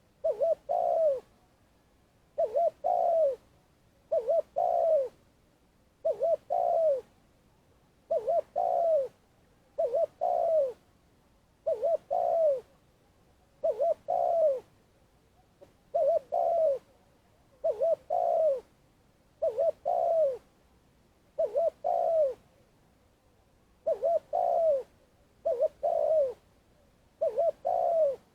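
Spotted dove cooing over and over. Each phrase is two short coos followed by a longer falling coo, repeated about every two seconds.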